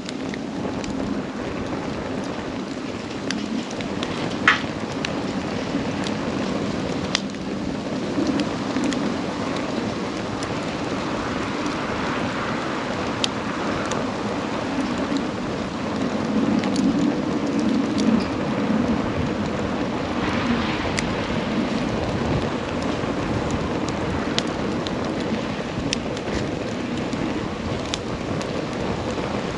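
Wood campfire burning: a steady rush of flame with scattered crackles and pops, the loudest pop about four and a half seconds in.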